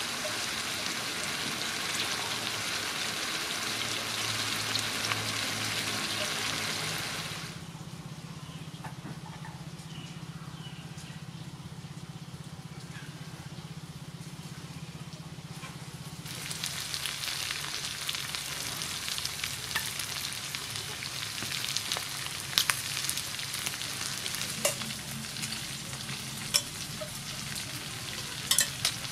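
Chicken frying and sizzling in a wok, a steady loud hiss. For several seconds midway the sizzling drops away, leaving a quieter low hum. When it returns, metal tongs click sharply against the wok now and then.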